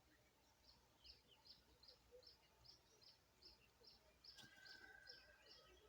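Faint wild birdsong: one bird repeats a short high note about two or three times a second, and near the end a second bird holds a steady lower whistle for about a second.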